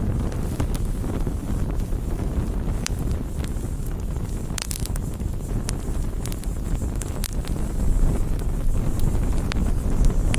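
Wood fire burning, with a steady low rumble and scattered sharp crackles and pops from the burning wood, several in quick succession about four to five seconds in.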